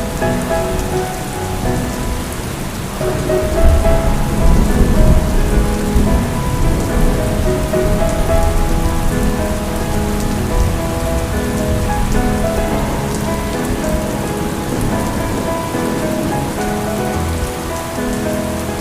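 Steady rain falling, with a soft melodic music track under it. A low rumble of thunder swells about three and a half seconds in.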